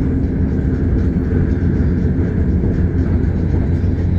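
KLIA Express airport train running along the line, heard from inside the carriage: a steady low rumble with a constant low hum.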